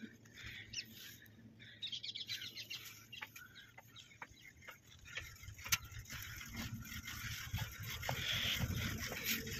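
Faint outdoor ambience with distant birds calling in short chirps, scattered small ticks, and a low rumble that grows louder from about halfway.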